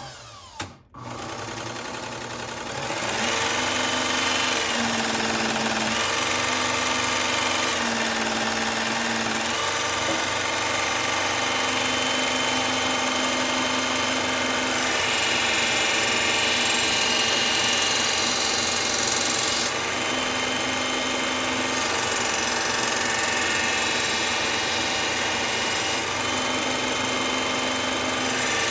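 Powered belt grinder running a compound-loaded felt stropping belt, starting up about a second in and then running steadily, its pitch shifting a little as a knife edge is pressed to the belt. The stropping polishes the edge and strips off the last of the burr.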